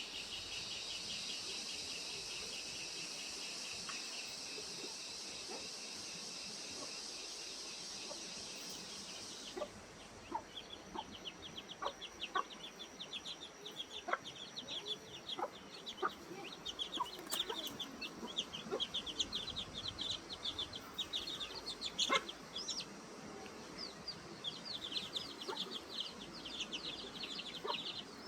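Outdoor animal sounds: a steady, rapidly pulsing high trill, like an insect chorus, cuts off about a third of the way in. Quick, high chirps with scattered sharp clicks follow.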